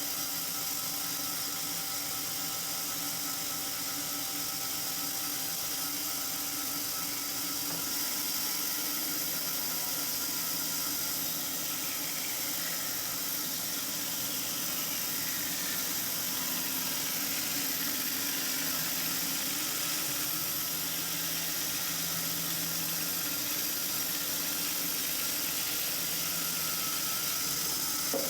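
A power tool's motor running steadily with a whir and a hiss, without pause.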